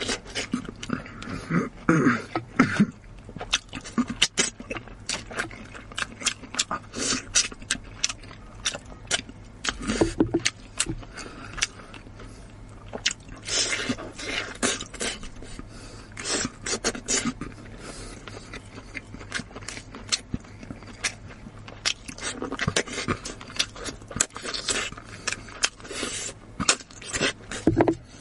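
A person chewing and gnawing meat off a spicy lamb leg bone: many short, irregular mouth clicks and smacks, coming in thicker clusters every few seconds.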